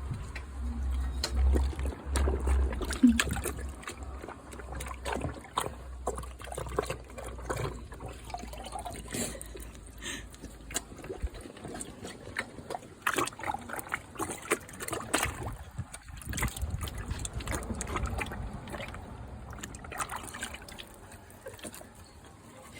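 Pool water splashing and dribbling in short, irregular bursts as a bull terrier dips his nose and head into the water. A low rumble runs under the first half.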